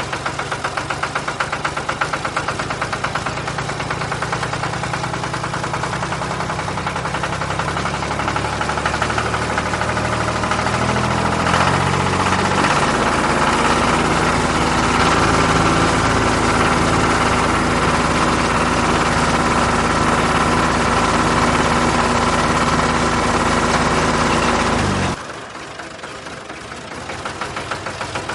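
An engine running with a rapid, even knocking beat; its pitch shifts partway through, and near the end it drops suddenly to a quieter running sound.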